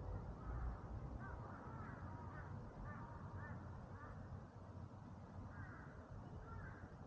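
Birds calling in woodland: a run of short, curving calls for a few seconds, then a couple more near the end, over a low steady rumble.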